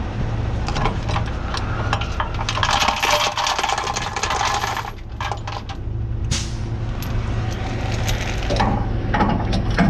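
Metal clinks and rattles of tools and bolts on a truck driveline, over a steady idling truck engine, with a harsher stretch of noise about three to five seconds in.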